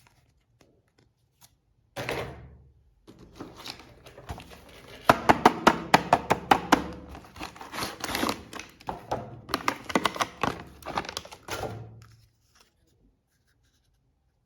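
Plastic toys and packaging being handled, making a run of sharp clicks and knocks. It starts about two seconds in, gets thickest in the middle and dies away near the end.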